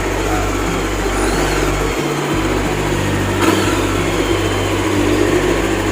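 Voge 500R motorcycle's parallel-twin engine running steadily through its stock exhaust, at an even level.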